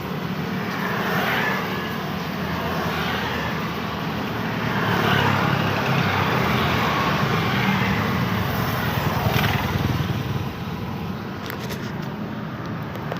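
Road traffic: cars and motorcycles passing one after another on a busy road, each pass swelling and fading over a continuous low engine rumble.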